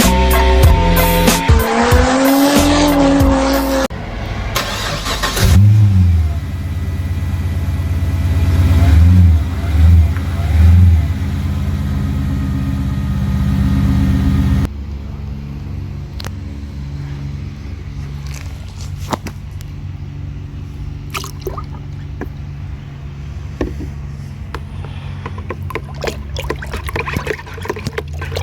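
Music for the first few seconds, then a ute's LS1 V8 through a 3-inch catback exhaust with the rear mufflers deleted: it revs up loudly, blips three times in quick succession, and after a cut runs steadily at a lower level.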